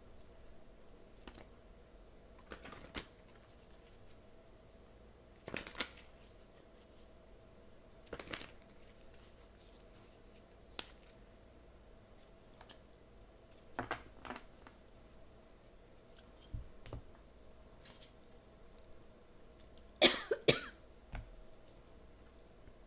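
Tarot cards being handled and shuffled: scattered short rustles and taps every few seconds, with a louder cluster of card snaps about twenty seconds in, over a faint steady room hum.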